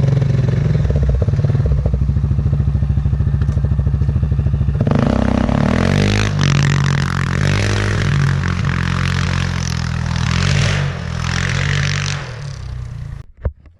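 Yamaha Grizzly 700 ATV's single-cylinder engine running at a steady low speed, then about five seconds in it picks up as the quad drives off, its pitch rising and falling, with clatter and scraping over the engine. The sound stops abruptly near the end.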